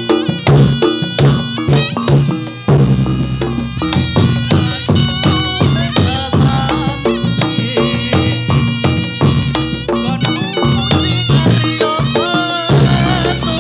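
Traditional Javanese jathilan dance music: drums and gong-chime percussion keep a quick, steady beat while a wavering high melody line runs over it.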